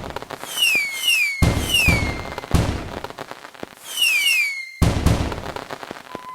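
Synthetic sound effects: bursts of crackling noise, like small fireworks, come in waves about a second and a half apart, each overlaid with quick falling whistle chirps.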